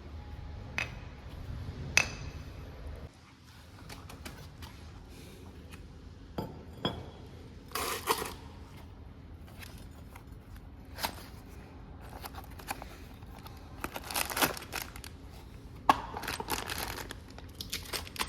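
Metal tools and parts being handled during brake work: scattered clinks and clatters, with a sharp ringing clink about two seconds in and several short scraping bursts later on.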